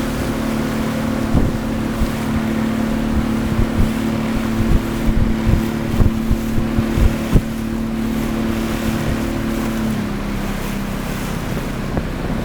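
A boat engine running steadily, its note stepping down a little about ten seconds in, with wind buffeting the microphone in irregular thumps.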